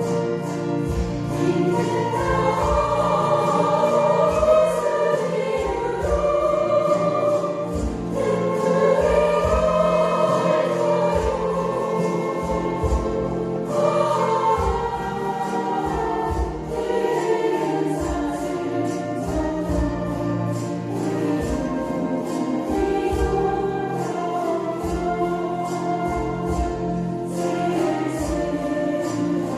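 Sung-eum chromaharps strumming steady chords while a group of voices sings a slow melody in unison with vibrato.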